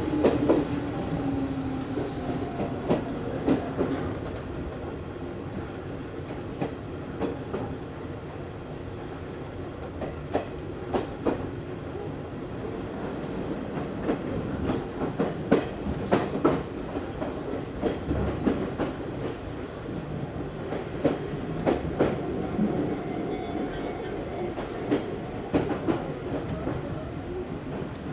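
Izu Hakone Railway 3000 series resistance-controlled electric train running between stations, heard from inside the car. Steady rolling noise is broken by sharp clicks of the wheels over rail joints. A faint whine is there at the start, fades out, and comes back near the end.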